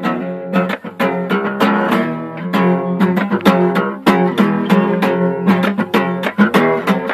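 Music: guitar chords strummed in a quick, steady rhythm.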